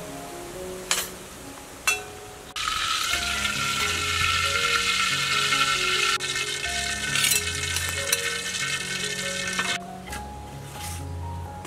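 Sauce sizzling and bubbling in a hot wok, starting abruptly about two and a half seconds in and cutting off suddenly about seven seconds later. Two sharp knocks come just before it, with soft background music underneath.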